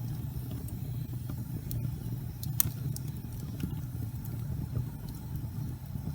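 Fireplace fire burning with a steady low rumble of flames and scattered crackles, one sharper pop about two and a half seconds in.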